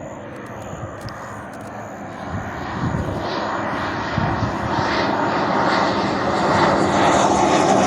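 BAE Hawk jet trainer approaching, its Adour turbofan's rushing jet noise growing steadily louder.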